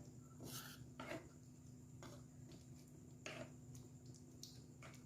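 Faint, irregular scrapes of a spoon stirring chicken pieces through thick gravy in a kadai, about one stroke a second, over a low steady hum.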